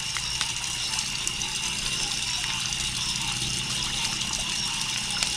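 Water trickling and running steadily, a continuous hiss, with a thin steady high tone over it and a few faint ticks.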